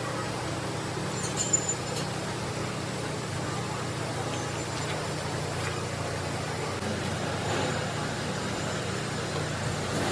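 Workshop machine running steadily, an even mechanical hum, with a couple of light clicks about a second and a half in.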